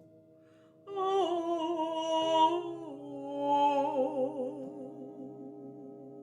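A woman's wordless singing with vibrato, entering about a second in and sliding down between held notes, over a steady sustained drone.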